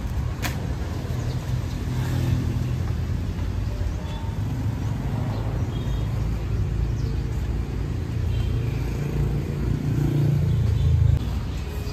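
Low, steady rumble of a motor vehicle running, swelling toward the end and then dropping off sharply about eleven seconds in.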